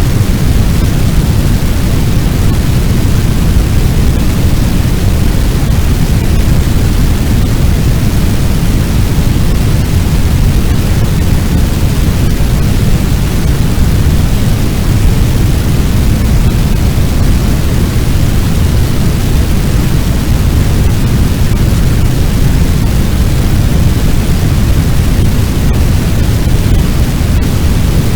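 Fire sound effect: a loud, steady low rumble of roaring flames and blast-like wind, with no crackles or other sudden events standing out.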